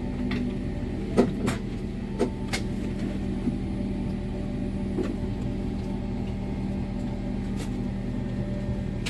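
Steady cabin hum of a Boeing 777 parked at the gate, the ventilation and ground power running, with a few light clicks and knocks of seat or tray-table handling about a second in and again near two and a half seconds.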